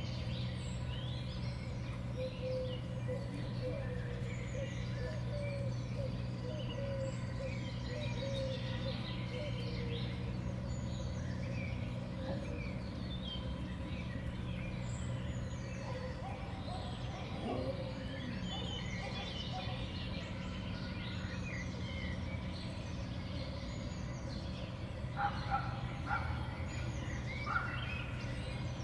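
Many small songbirds chirping and calling at a feeder, with a steady low hum underneath and a few sharp taps near the end.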